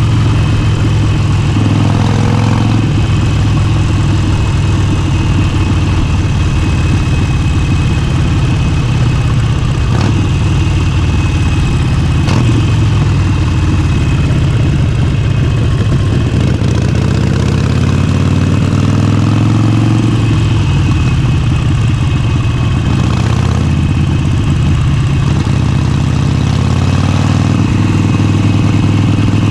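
Motorcycle engine running loud and unmuffled-sounding while riding, its pitch falling and rising with throttle and gear changes, with a long climb in pitch about two-thirds of the way through.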